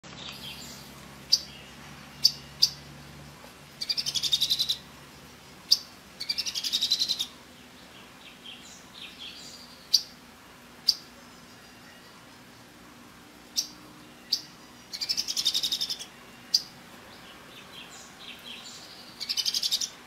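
Songbird calls: single sharp high chips scattered through, with four rapid trilled phrases about a second long each.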